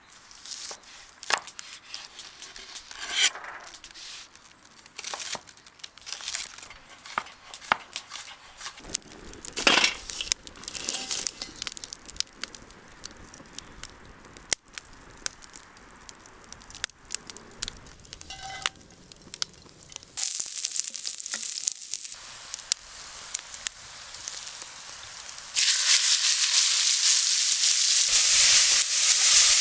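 Scattered clicks, knocks and rustles of food being handled, then food sizzling in a hot pan: a short burst about two-thirds in, and a loud, steady sizzle from near the end.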